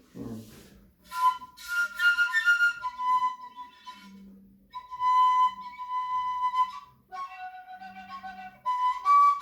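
Kalyuka (overtone flute), a plain end-blown tube without finger holes, played in a series of breathy notes that jump between pitches of its overtone series, with short breaks between phrases.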